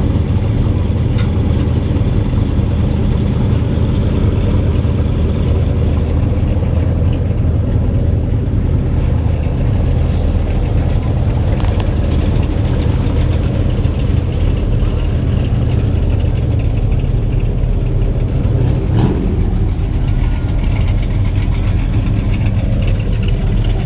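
Car engines running at low speed with a steady, deep exhaust rumble as cars drive slowly away.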